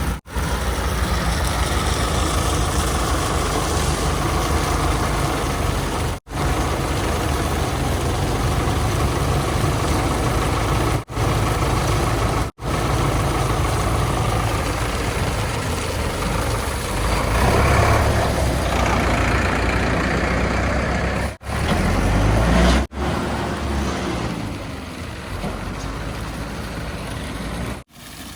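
Heavy diesel machinery engine running steadily, heard in several short clips joined by abrupt cuts; the engine gets louder, working harder, for a couple of seconds past the middle.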